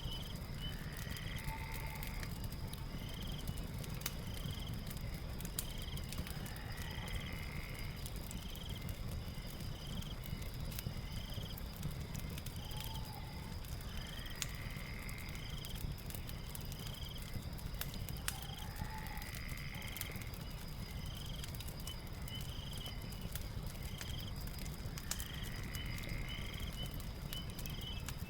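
Night ambience over a fireplace: a steady high insect trill with regular short chirps about once a second, and a longer call every five to six seconds. Underneath are a low rumble and scattered crackles from the fire.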